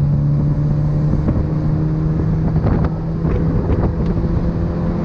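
Race car engine at speed, heard from inside the open cockpit: a steady drone that rises a little in pitch and then holds as the car accelerates, with wind rushing over the microphone and a few short knocks about halfway through.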